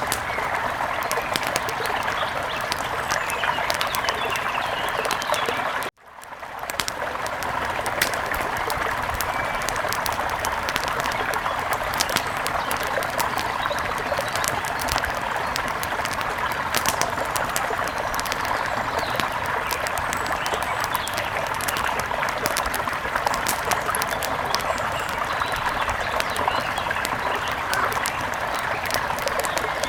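Steady rush of flowing river water with many sharp crackles scattered over it. The sound cuts out abruptly about six seconds in and swells back within a second.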